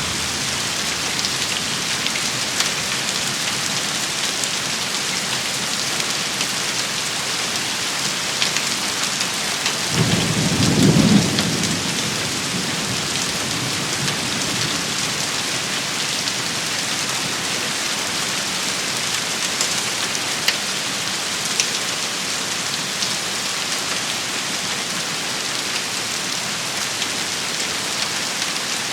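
Steady heavy rain shower pattering on surfaces, with scattered sharper drop ticks. About ten seconds in, a brief low rumble swells for a couple of seconds, then fades.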